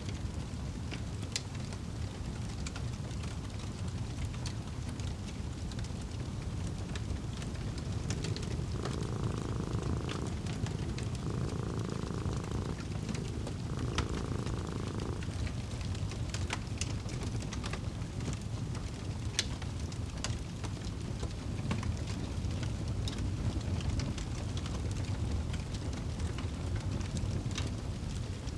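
Fireplace crackling, a steady low rumble dotted with sharp pops, while a cat purrs in three bouts of a second or two each, about a third of the way to halfway in.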